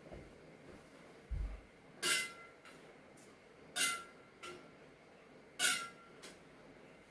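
Digging to plant a tree: a metal tool strikes the ground three times, about every two seconds. Each stroke has a short metallic ring and a fainter scrape just after, with a dull thump shortly before the first stroke.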